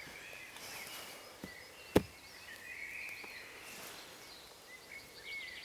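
Small birds chirping in the woods, with one sharp knock about two seconds in and a fainter one just before it: a spade striking a tree root in a fire pit being dug.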